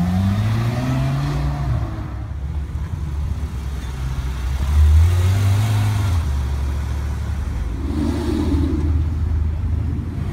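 Supercar engines pulling away one after another. A Ferrari F12berlinetta's V12 revs up in rising sweeps as it drives off. About five seconds in, a Porsche 911 GT3 RS flat-six comes in suddenly, louder, accelerating, then runs on steadily.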